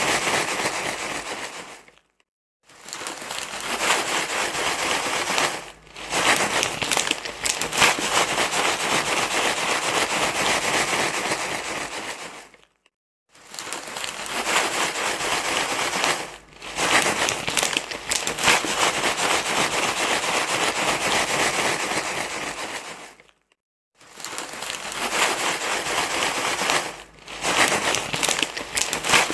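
Loud, continuous crinkly rustling, like something being crumpled and rubbed, played as a baby-soothing noise. It stops dead for about half a second three times, roughly every ten seconds, with shorter dips in between.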